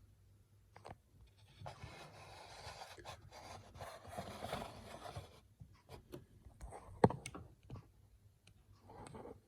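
Scraping and rustling for a few seconds, then a run of scattered clicks with one sharp click about seven seconds in.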